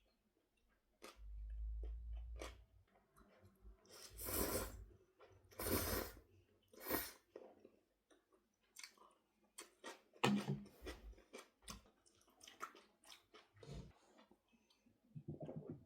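A person eating: faint chewing and crunching in short, irregular bursts, with a cluster of small sharp clicks about two thirds of the way through.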